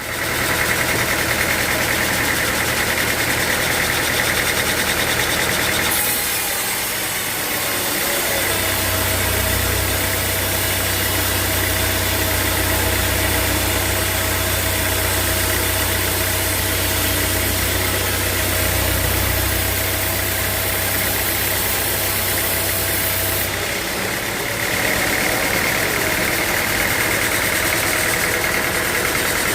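Sawmill machinery with its engine running steadily. From about a quarter of the way in until near the end, a deeper, heavier running sound joins it, then the earlier sound returns.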